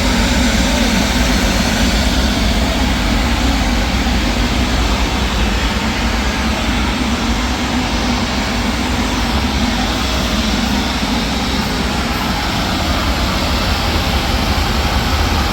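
A loud, steady drone of a running engine or machine, strongest in the low range and holding even throughout.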